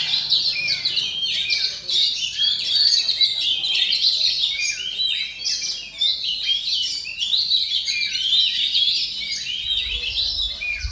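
Oriental magpie-robin (kacer) singing without pause, a dense stream of quick, varied chirps and whistles typical of a contest songbird in full song.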